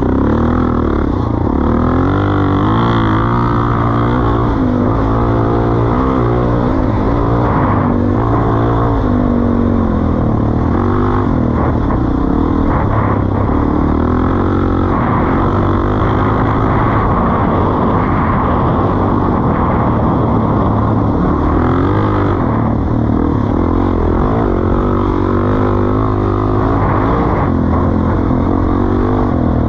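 Suzuki DR-Z400E's single-cylinder four-stroke engine running through a Pro Circuit T-4 exhaust, its pitch rising and falling with the throttle.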